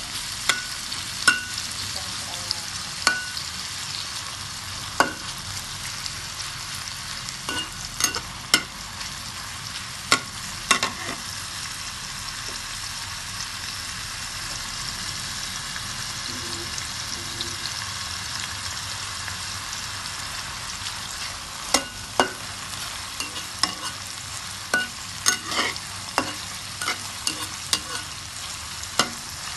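Sliced sausage and shallots sizzling in hot oil in a pan, with a metal spatula clinking and scraping against the pan as it stirs. The clinks come in clusters near the start and near the end, with a stretch of mostly steady sizzling in the middle.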